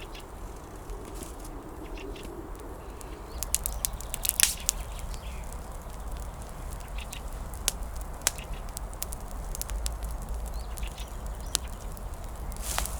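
Dry grass and twig kindling crackling and snapping irregularly as a small campfire catches. The cracks come thicker from about three seconds in, over a low rumble of wind.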